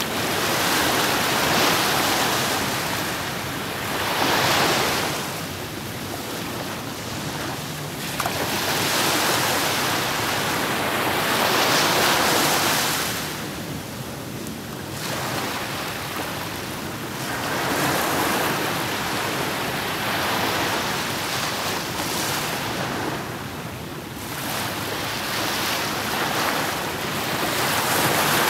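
Black Sea surf: waves breaking and washing on the shore. It swells and ebbs, with a surge every four to six seconds.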